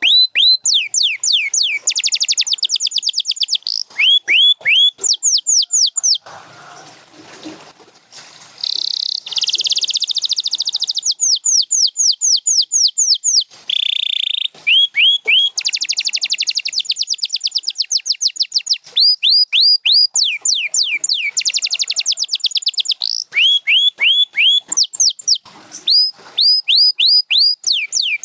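Domestic canary singing: runs of repeated falling whistled notes alternating with fast, rattling trills, with a short break about a quarter of the way in.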